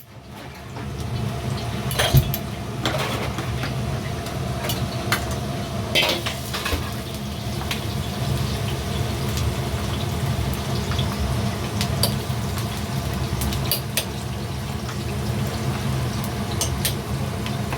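Metal cookware and utensils clinking and knocking in a restaurant kitchen, with a ladle or spatula striking a pan, over a steady low rumble and a light sizzle of frying.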